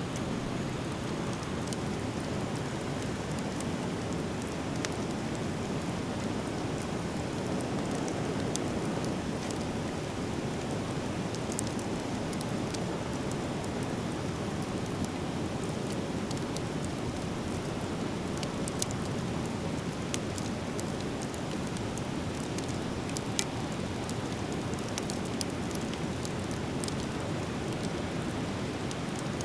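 Driftwood fire burning, with scattered sharp crackles and pops over a steady rushing noise.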